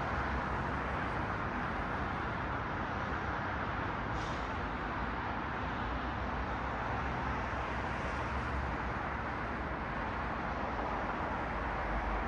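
Steady road traffic noise: cars passing, their tyre and engine noise blending into a constant hiss over a low rumble.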